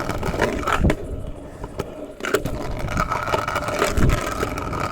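Hard wheels rolling over wet pavement, with two heavy landing thumps, one about a second in and one near the end, and a lighter knock in between, as a street rider lands a transfer and rides on.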